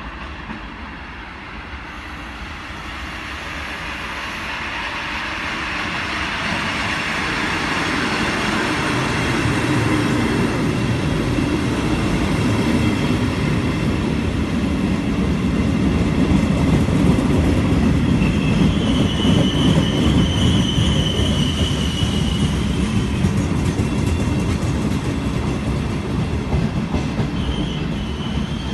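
Train running in along a station platform: its rumble builds over about ten seconds and then holds, with a brief high wheel squeal about two-thirds of the way in.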